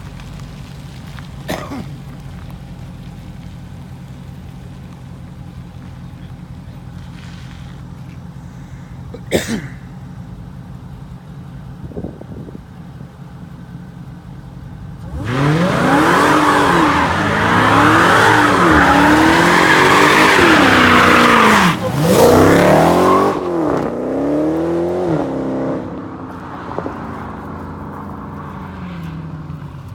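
Hemi V8 car doing a burnout. After a low idling rumble, about halfway in the engine revs hard, its pitch rising and falling over and over above loud tyre squeal for about eight seconds, then fades away.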